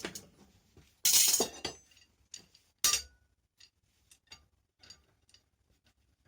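Metal objects clinking and clattering as they are handled. There is a short clatter about a second in, then a single sharp ringing clink near the middle, followed by a few light ticks.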